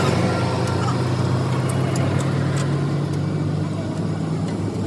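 A vehicle engine running steadily with a low, even hum, with a few faint clicks in the middle.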